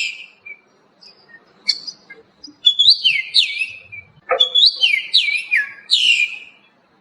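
A small songbird singing: a few short chirps, then two whistled phrases of quick sliding notes, rising and falling, the second phrase longer.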